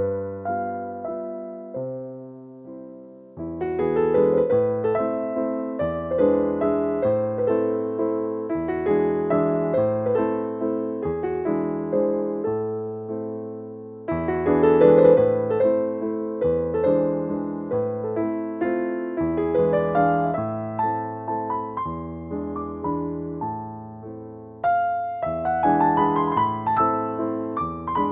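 Slow, gentle relaxing piano music: sustained notes in phrases that fade away and begin again a few times.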